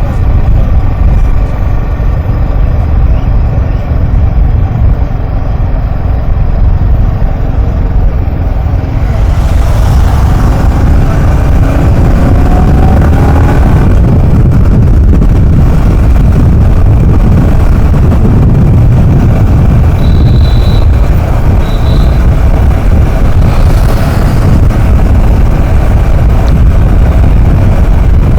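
Heavy wind rushing over the microphone while riding along a road, with a vehicle engine running under it and briefly rising in pitch partway through.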